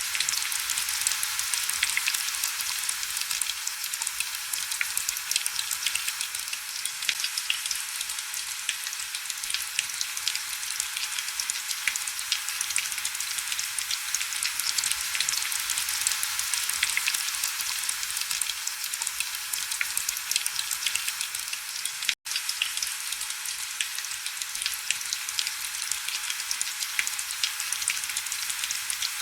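Heavy rain falling steadily: a dense, even hiss dotted with many small droplet ticks. It cuts out for an instant about three quarters of the way through.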